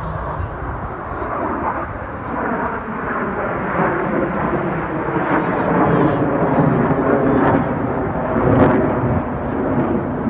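Jet aircraft passing at an airshow: a deep, rumbling roar that grows louder over the first several seconds and stays loud, with faint shifting pitch as it goes by.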